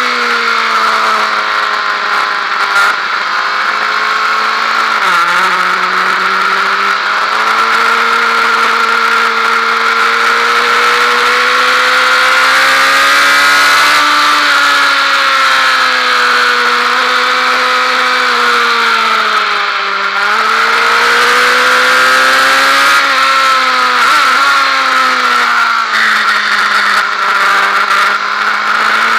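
Honda Fireblade's inline-four engine running hard on track, its note rising and falling through the lap with a sudden drop in pitch about five seconds in, under a steady rush of wind noise.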